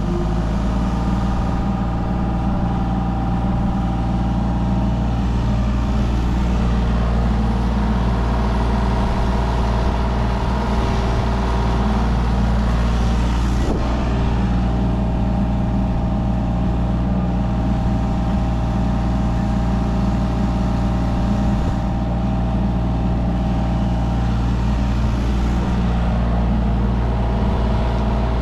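Mini excavator's diesel engine running steadily at working speed while the machine digs and moves dirt, with higher whining tones from the hydraulics fading in and out.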